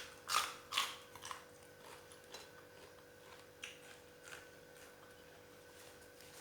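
Close-up eating sounds: a cluster of loud crunchy bites and chewing clicks in the first second, then scattered softer chewing clicks.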